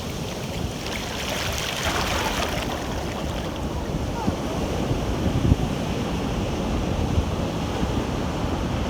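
Ocean waves washing and breaking, with wind rumbling on the microphone.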